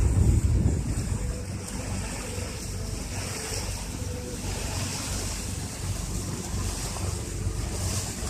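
Wind buffeting the microphone over the rush of sea water, with a low rumbling drone from a motorboat's engine, a little louder in the first second.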